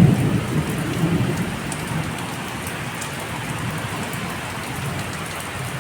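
Heavy rain falling steadily, with scattered drop ticks, while a low rumble of thunder dies away over the first couple of seconds.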